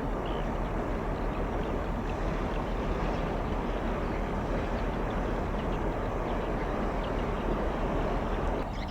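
Steady rumble and rush of a passing container ship, engine and moving water blended into one even noise. The sound changes abruptly to a quieter one near the end.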